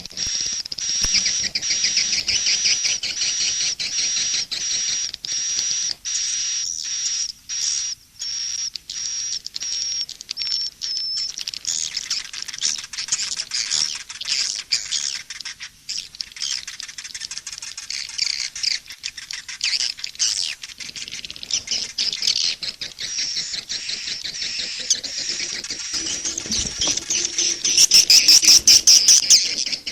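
Recorded swiftlet calls mixed as a swiftlet-house lure sound: many dense, rapid high twittering chirps. A steady high note runs under the chirps for the first third, and the chirping grows louder near the end.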